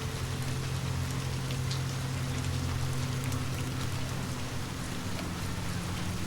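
Steady rain falling, with a few faint sharp pops over a low steady hum.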